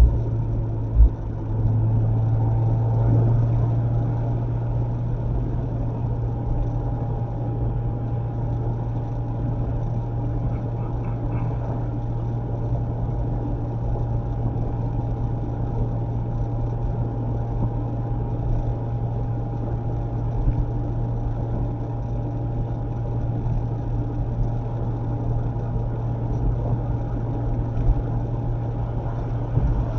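Mazda MX-5 ND roadster's four-cylinder engine droning steadily at cruise, with road noise, heard from inside the car. There are two short knocks near the start.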